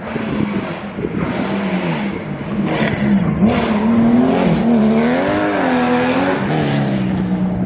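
Historic rally car engine revving hard, its pitch rising and falling several times as the throttle is worked, with short bursts of hiss over it.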